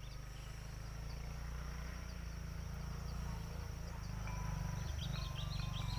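Insects chirping steadily with a thin high buzz, and short repeated chirps joining in about two-thirds of the way through, over a low steady rumble.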